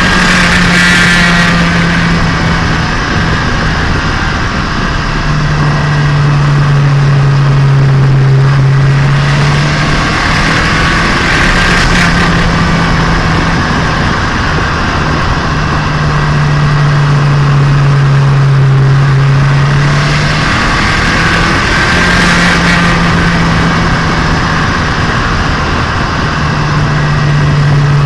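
Turbocharged Nissan Micra engine and exhaust heard onboard while being run in, with a loud steady drone that steps between a higher and a lower pitch every few seconds as engine speed changes.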